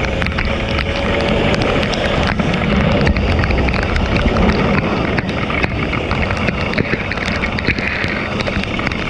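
Two-stroke motorcycle engine running at speed, mixed with heavy wind and rain noise on the microphone and many sharp clicks.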